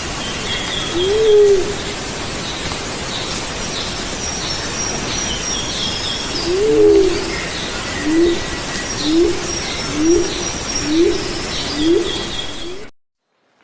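A dove cooing low: one coo about a second in, another midway, then a run of five short coos about a second apart, over high chirping and trilling from small birds and a steady hiss. The sound cuts off abruptly near the end.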